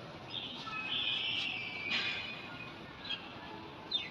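A puppy's high-pitched whines and squeaks: one drawn-out squeal, then a few short falling squeaks.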